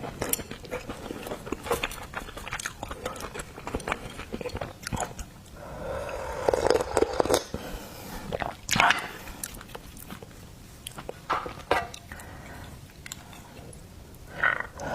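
Close-miked eating of seafood: wet chewing and biting with many small clicks and smacks from the mouth, louder wet mouth sounds about six and nine seconds in.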